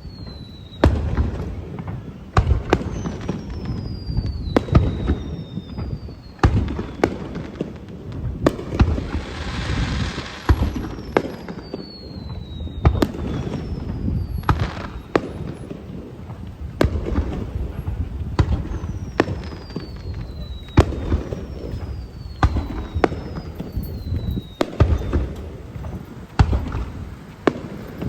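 Aerial fireworks show: shell bursts go off about every second over a low rumble, several whistles slide down in pitch, and a hissing crackle swells about a third of the way through.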